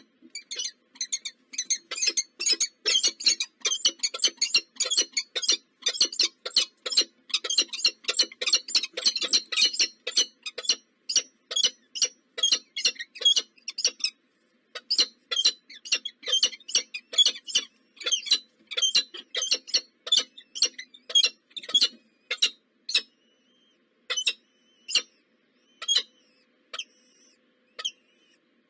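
Baby birds in a nest chirping: a rapid run of short, high chirps, several a second, with a brief pause partway through, thinning to scattered single chirps near the end.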